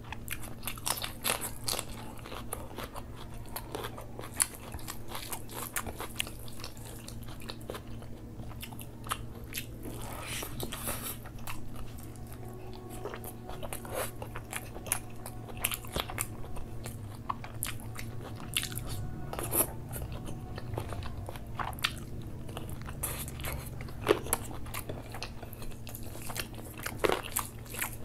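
Close-miked chewing and crunching of food, with many small clicks and crackles and occasional sharper bites, over a steady low hum.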